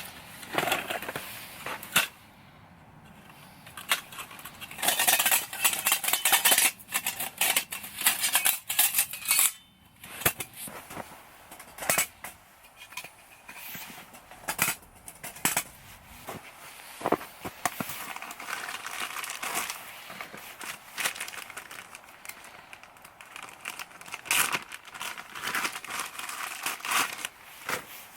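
Things being handled: irregular clicks and clinks with crinkling and rustling, busiest in a few flurries.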